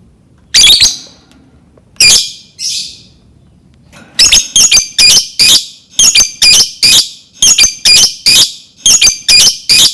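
Lovebird giving the short, shrill staccato 'ngetik' (typing) calls: a few separate calls, then from about four seconds in a fast run of clipped chirps in twos and threes.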